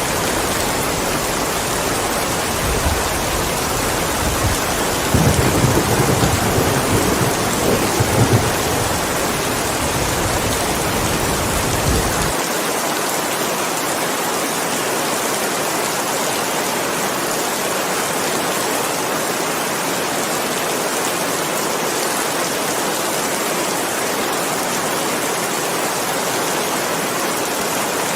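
Steady rain falling, with a low roll of thunder starting a few seconds in, loudest near the middle of its run, and cutting off abruptly about twelve seconds in; the rain alone continues after.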